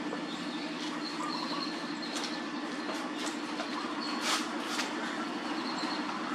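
A steady machine hum under an even hiss, with a few sharp clicks scattered through it.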